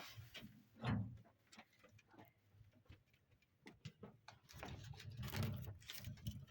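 Scattered light clicks and knocks of handling, with a dull thump about a second in.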